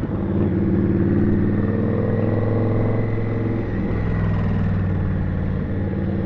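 Indian Scout's V-twin engine running steadily under way, heard from the rider's seat, its note easing slightly about four seconds in.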